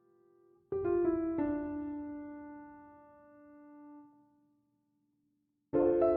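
Slow solo piano music: a chord struck about a second in, its notes added one after another, left to ring and fade away. After a moment of silence another chord is struck near the end.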